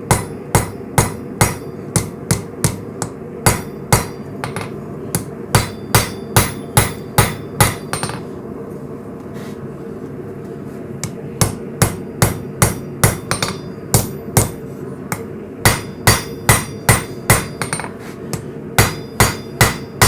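Hammer blows on hot coil-spring steel against an anvil, about two and a half strikes a second, each with a bright metallic ring, pausing for a few seconds near the middle. The steel is being hammered to offset the material between runs on the press. A steady low hum runs underneath.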